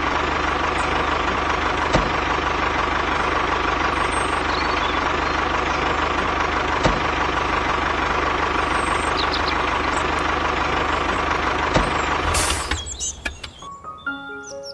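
A motor running steadily with a constant hiss and a steady whine, with a few single clicks along the way. It ends with a short burst of noise about twelve seconds in and then fades out.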